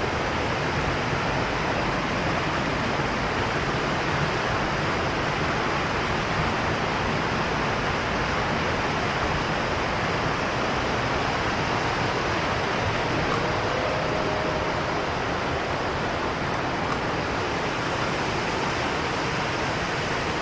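Steady rush of falling water from a waterfall: an even, unbroken hiss with no change in level.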